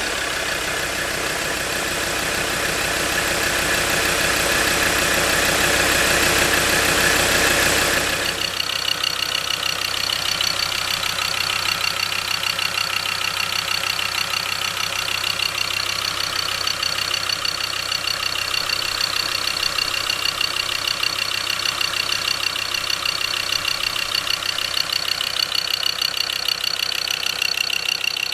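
Ford 3.2 Duratorq/Power Stroke five-cylinder diesel engine running louder at raised revs, then about eight seconds in dropping suddenly to a steady idle with the typical diesel clatter and a faint high whine.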